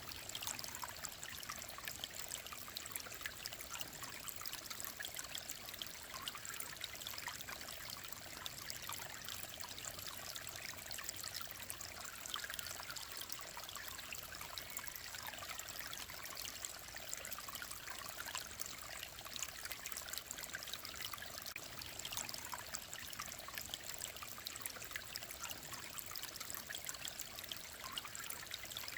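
Shallow mountain stream of clear water running and trickling steadily over stones, an even babble with fine splashes and no breaks.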